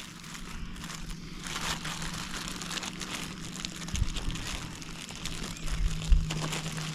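Spicy smoked sausages, bacon and onions sizzling inside a Rome Dog'n Brat Cooker pie iron: a steady crackling hiss with many small pops. A couple of low thumps come about four and six seconds in.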